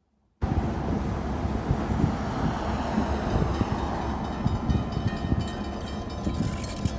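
A train passing close by: steady rumble and clatter of wheels on the rails, with a few steady high squeals over it. It cuts in suddenly about half a second in.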